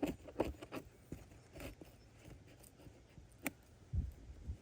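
Scattered light clicks and knocks of objects being handled, with a sharper tick about three and a half seconds in and a dull thump about four seconds in.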